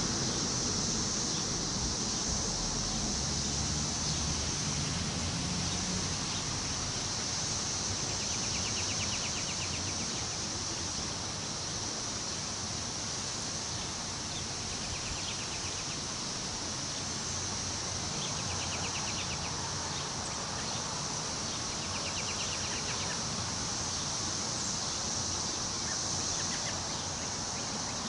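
Wind rustling through the leaves of trees in a steady rush, under a continuous high-pitched insect drone. Short buzzy trills recur every few seconds.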